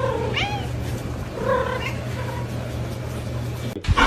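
A cat meowing a few short times, each call bending up and down in pitch, over a steady low hum; the sound cuts off abruptly near the end.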